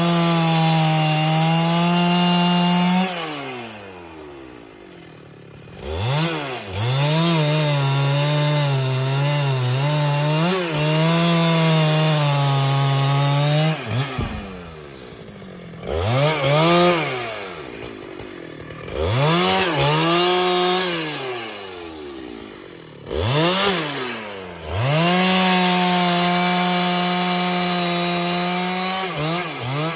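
Husqvarna 395XP two-stroke chainsaw revved to full throttle four times and dropping back toward idle between. The long second run wavers in pitch as the chain is loaded in a cut, with the saw cutting wood.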